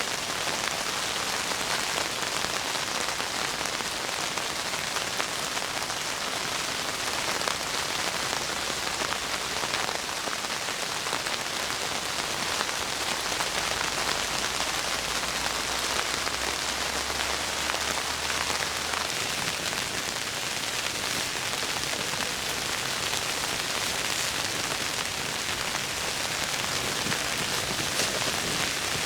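Heavy rain falling steadily, a dense hiss dotted with the taps of individual drops.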